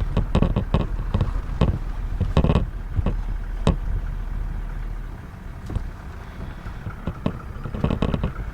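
Vehicle engine idling with a steady low hum, overlaid by irregular sharp clicks and knocks; the hum drops away about five seconds in.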